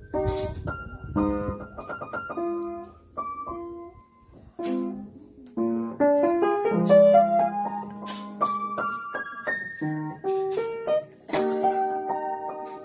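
Background music played on piano or electric keyboard: single notes and chords, with a rising run of notes about halfway through.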